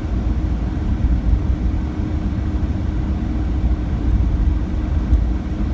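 Steady low rumble of a car driving on a winter road, engine and tyre noise heard from inside the cabin.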